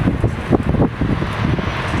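Wind buffeting the camera microphone in loud, irregular low gusts.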